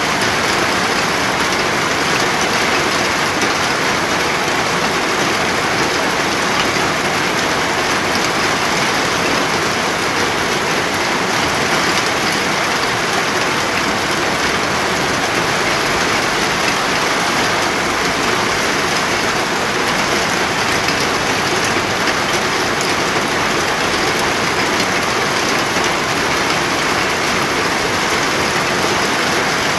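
Steady heavy rain falling, an even hiss without breaks or single drops standing out.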